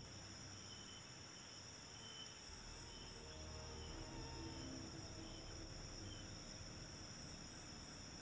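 Faint, steady high-pitched chorus of night insects such as crickets, trilling without a break.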